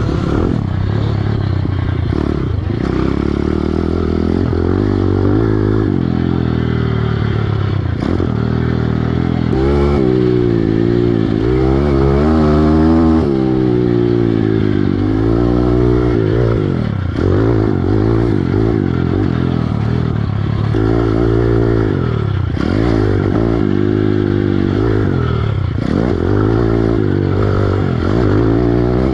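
Piranha 140 pit bike's single-cylinder four-stroke engine revving hard and backing off over and over while riding a motocross track, its pitch climbing and dropping every second or two.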